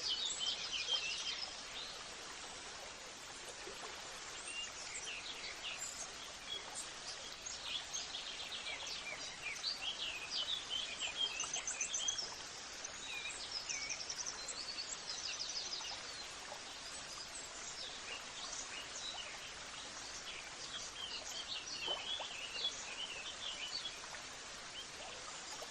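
Several small birds chirping and trilling over a steady background hiss, with bursts of rapid trills about a second in and again around the middle.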